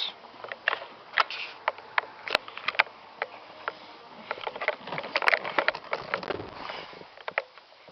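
Irregular clicks, taps and rustling, the sound of hands and a camera being handled in a car's back seat, with a couple of short scuffing stretches about five to six seconds in.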